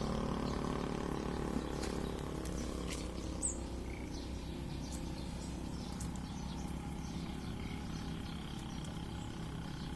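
Outdoor background noise with a steady low hum and scattered faint clicks, and one brief high bird chirp about three and a half seconds in.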